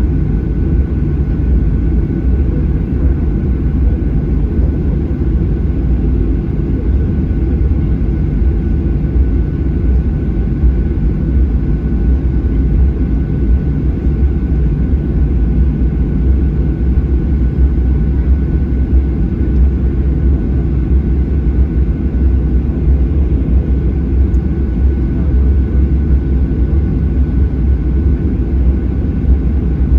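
Cabin noise of a Boeing 737-800 taxiing on the ground: its CFM56-7B engines near idle give a steady low rumble, with a faint steady high tone above it.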